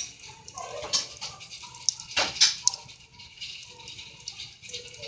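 Wood fire in a fireplace crackling: irregular sharp pops over a steady hiss, the loudest pops about halfway through.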